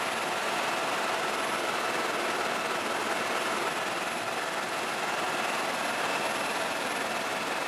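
Helicopter running steadily: a dense, even noise with a few faint steady tones and no change in level.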